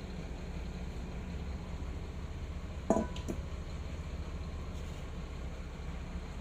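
Steady low background hum, with a sharp clink about three seconds in followed by a smaller one, as of a container or utensil knocked while ingredients are measured out.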